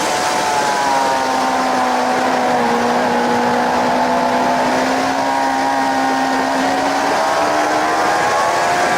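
Suzuki GSX-R750's inline-four engine running at speed on track under heavy wind rush on the camera microphone; the revs dip slightly a few seconds in, then climb steadily.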